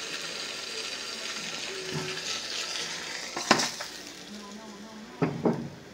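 Beef bologna sizzling in a frying pan, the hiss fading, with one sharp knock about three and a half seconds in and two quicker knocks near the end.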